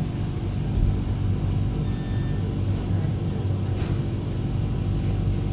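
Flexity tram heard from inside the passenger cabin, running along with a steady low rumble and hum.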